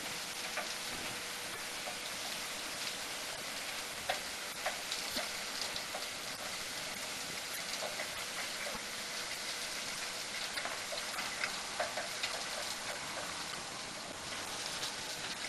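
Sand washing machine working: water and wet sand pouring and splashing make a steady hiss, with many small irregular ticks of grit striking.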